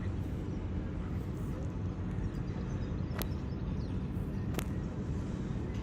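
Fishing boat engine running with a steady low drone as the boat comes into harbour, with two sharp clicks about three and four and a half seconds in.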